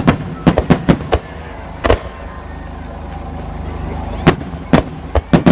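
Aerial firework shells bursting in an irregular rapid series of loud bangs, each with a short echo. There is a cluster of about six bangs in the first second, one near two seconds, and another burst of four or five near the end.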